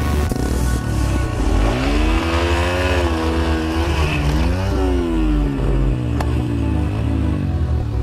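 Yamaha TTR 125 dirt bike's single-cylinder four-stroke engine revving up and down, its pitch rising, dipping, rising again about halfway through, then falling away. A low pulsing thump runs underneath throughout.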